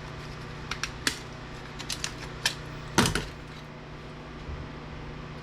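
Irregular sharp clicks and taps of parts of a UPS unit being worked and pried at, with a louder clatter about three seconds in.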